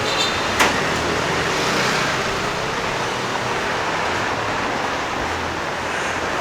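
Steady road traffic, cars running past, with a single sharp knock about half a second in.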